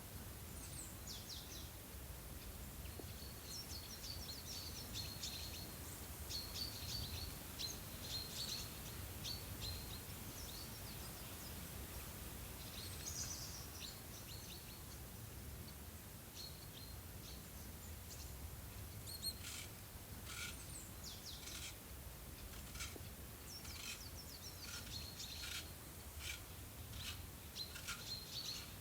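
Small birds chirping and twittering in quick runs of short high calls, in two spells with a lull in the middle, over a steady low background hum.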